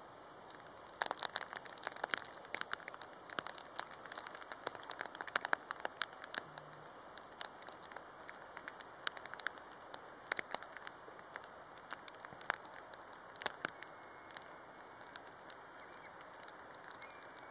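Heavy rain: raindrops ticking sharply and irregularly against a surface over a steady hiss, the ticks coming thickest from about a second in for several seconds, then thinning out.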